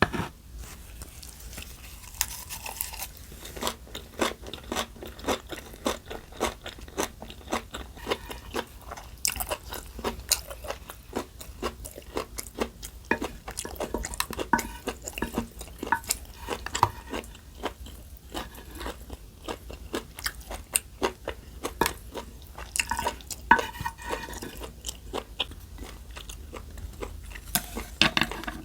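Close-miked eating: a person chewing and biting food, with many crisp crunches in quick, irregular succession.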